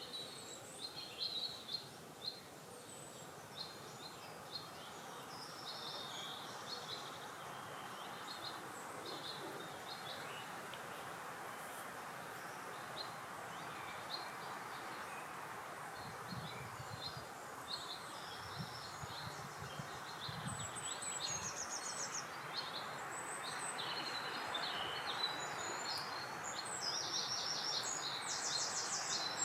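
Small birds calling and singing in short, high chirping phrases, thickest near the start and the end, over a steady rush of wind that grows louder in the second half.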